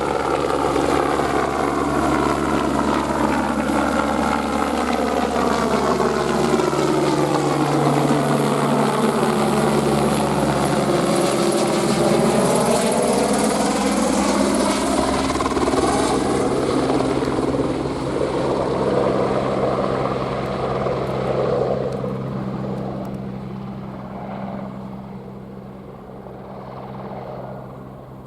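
Airbus AS350 helicopter's rotor and turbine running loudly as it passes close by, with a steady low hum under a sweeping whoosh, then fading as it moves away over the last few seconds.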